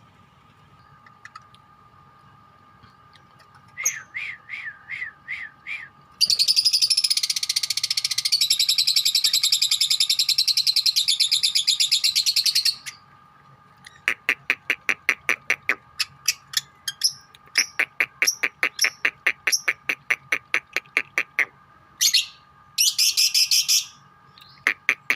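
Lovebirds calling: a few short chirps, then a long, loud, rapid chattering trill (the 'ngekek') lasting about six seconds. After it come quick sharp chirps at about four a second, and a second short trill near the end.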